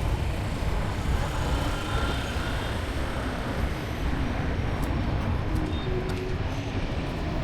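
Street traffic noise: a steady low rumble of passing vehicles, with a few faint clicks.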